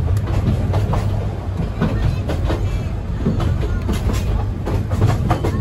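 Passenger train carriage rolling along the track, heard from inside: a steady low rumble with irregular clicks and clatter from the wheels on the rails.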